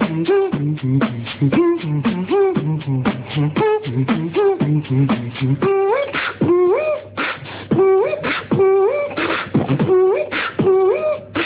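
Beatboxing: fast, rhythmic vocal percussion with hummed low notes underneath. From about six seconds in it adds short hummed notes that slide upward between the beats.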